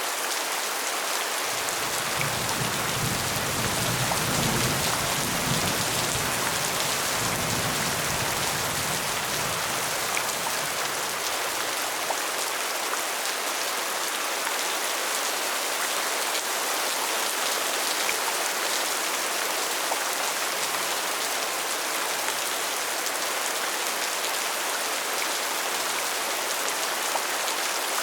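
Steady rain falling. About a second and a half in, a low rumble of thunder starts suddenly and fades away over the next ten seconds.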